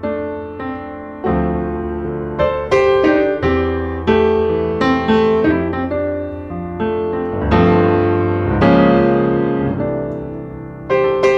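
Piano music, slow and tender: chords and single notes struck and left to fade, over a low bass note.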